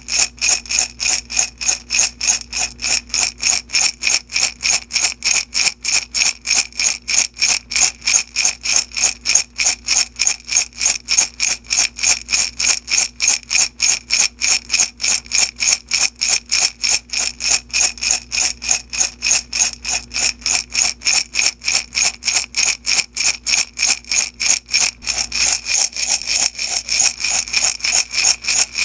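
Beads shaken back and forth in a glass jar, rattling against the glass in a steady rhythm of about four shakes a second. The shakes run closer together near the end.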